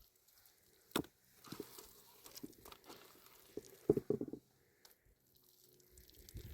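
Irregular crinkling and tearing handling noises, with a sharp knock about a second in and a quick run of knocks around four seconds.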